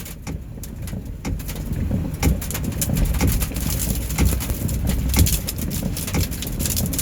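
Hail and heavy rain pelting a car, sharp irregular ticks over a low wind rumble, growing denser and louder about two seconds in.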